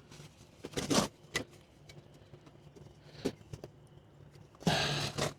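A few light plastic clicks and knocks from hands working a headlight bulb and its wire connector loose in the housing, then a short heavy breath near the end.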